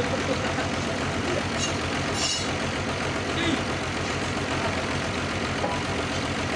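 Sawmill machinery running steadily, a constant engine-like drone with a fine rapid pulse.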